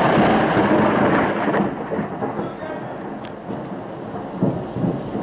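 A thunderclap rumbling, loud for the first second and a half and then dying away, over the steady hiss of rain.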